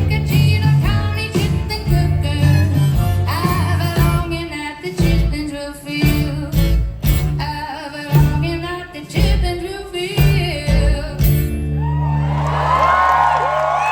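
Live band playing the last bars of an upbeat country song with a lead voice singing, ending on a held chord about eleven seconds in. The crowd then starts cheering and whooping over the ringing chord.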